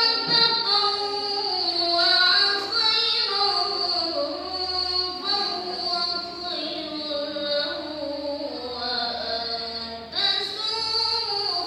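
A student's solo voice reciting the Quran in melodic tilawah style: long, ornamented phrases sliding up and down in pitch, broken by a breath about ten seconds in before a new phrase starts.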